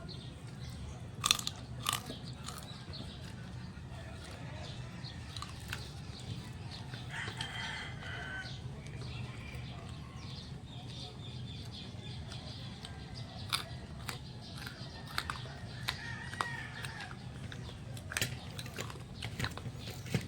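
Biting and chewing on crisp deep-fried pork knuckle skin (crispy pata): sharp crunches, loudest just over a second in and again in a run in the second half. A rooster crows in the background.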